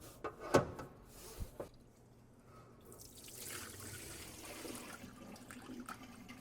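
A couple of light knocks, then water running steadily from a tap, starting about three seconds in.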